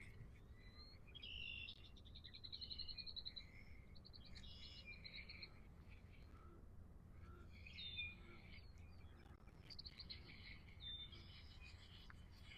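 Faint songbirds calling: a rapid high trill about two seconds in, then scattered short chirps and calls, over low background hum.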